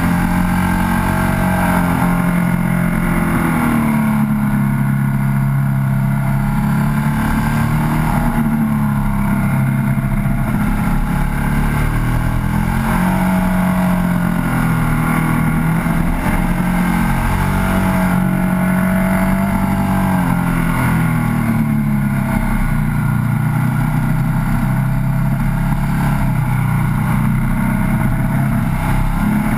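Ducati 1098S's L-twin engine heard from on board, ridden hard in second gear through a run of tight bends. Its revs rise and fall every few seconds as the throttle is rolled on and off, over a steady rush of wind.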